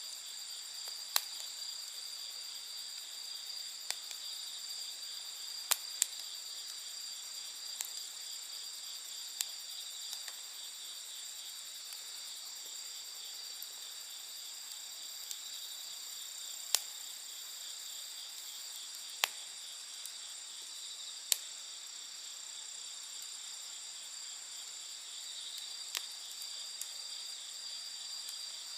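Wood campfire crackling, with sharp single pops every few seconds, over a steady high-pitched chorus of insects.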